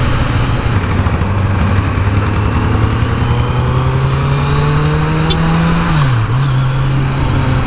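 Kawasaki Z900's inline-four engine pulling under way, its pitch climbing slowly as the bike accelerates, then dipping sharply and picking up again about six seconds in, as at a gear change.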